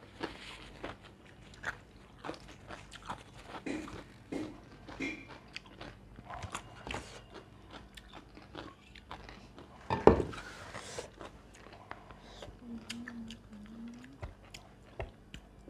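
Close-miked eating: chewing and crunching with many small wet clicks and smacks, and one louder crunch about ten seconds in.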